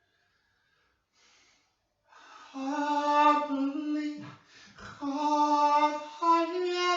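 A single voice singing unaccompanied in long, slow held notes. It starts about two seconds in and stops for a breath near the middle.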